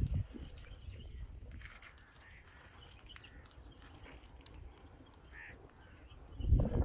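Faint bird calls against a quiet outdoor background, with a brief low rumble near the end.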